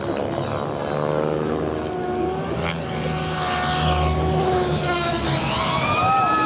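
Radio-controlled helicopter flying 3D aerobatics: the whine of its rotor and motor rises and falls in pitch with the manoeuvres.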